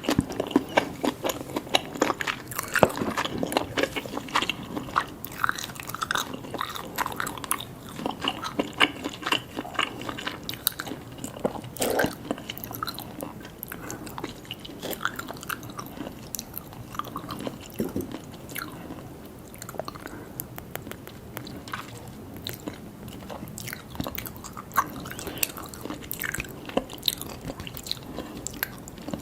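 Close-up eating sounds of a person chewing and biting seafood: a steady run of small wet clicks and smacks, busier and louder in the first half.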